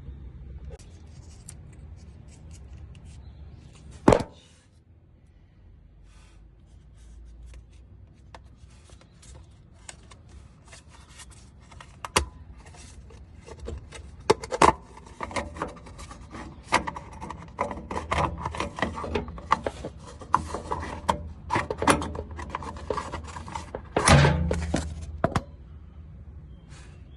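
Hand work with tools and parts: scattered clicks, scrapes and rubbing, with a sharp knock about four seconds in and another near the end. The clicking grows busier in the second half.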